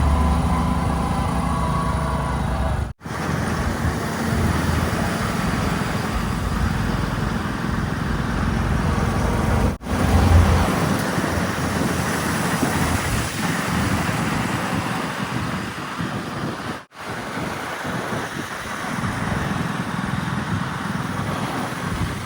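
Diesel engines of heavy machinery running steadily, with the sound breaking off sharply three times where clips are joined.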